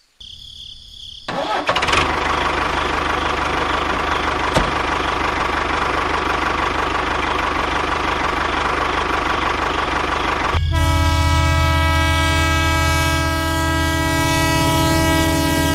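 A vehicle engine starts up about a second and a half in and runs steadily. About ten seconds in, a loud, sustained horn blast cuts in and holds, sagging slightly in pitch near the end.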